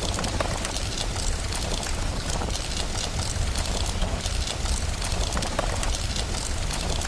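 Steady rain with a low rumble beneath it, and a fireplace crackling with irregular small pops throughout.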